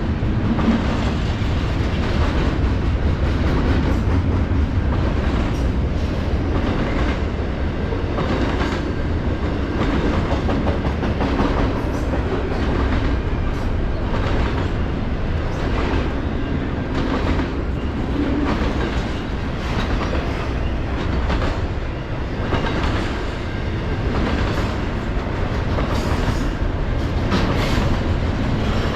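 Freight train rolling past with a steady low rumble, its wheels clacking repeatedly over rail joints.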